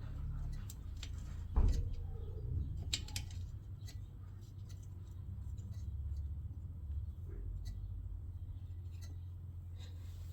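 Scattered small metallic clicks and taps of a small bolt and tool being handled and fitted by hand, a few sharper clicks in the first few seconds, over a steady low hum.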